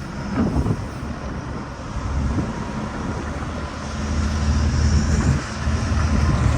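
A truck engine runs steadily, a low drone that builds about two seconds in, with wind rushing on the microphone.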